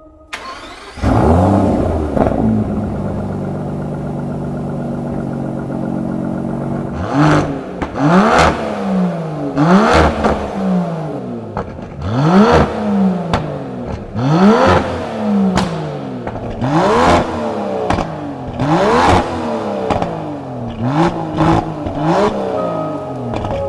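Aston Martin car engine starting with a brief flare of revs, settling to a steady idle, then revved repeatedly: about a dozen sharp blips of the throttle, each rising and dropping back quickly.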